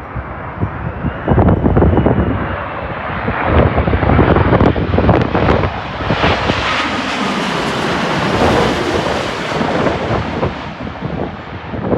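Jet airliner passing low on its landing approach, its engine noise with a faint high whine building to its loudest a little past the middle and easing off near the end. Wind gusts buffet the microphone.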